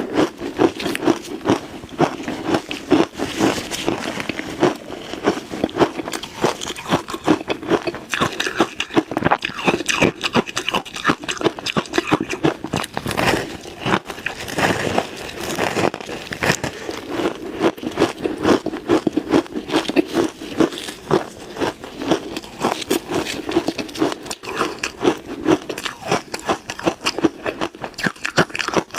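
Ice being bitten and chewed close to the microphone: continuous, irregular crunching and cracking of hard ice pieces between the teeth.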